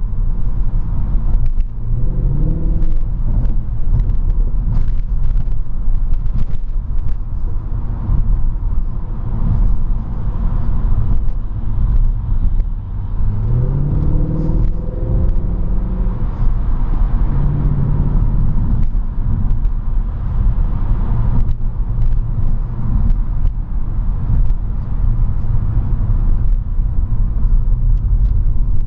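Mercedes C63 AMG (W204) 6.2-litre V8 heard from inside the cabin while driving, a steady low rumble over road noise. The engine note rises as the car speeds up, about two seconds in and again around the middle.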